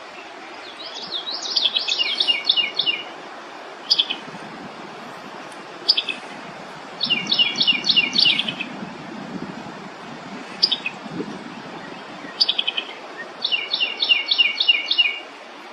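Small songbird singing: three repeated fast trilled phrases, each about two seconds long and about six seconds apart, with single sharp chirps in between.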